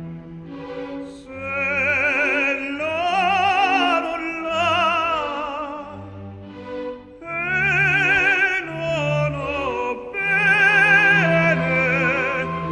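Background music: operatic singing with a wide vibrato over orchestral accompaniment.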